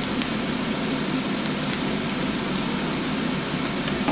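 Steady hiss of ham frying in a pan, with a few faint pops.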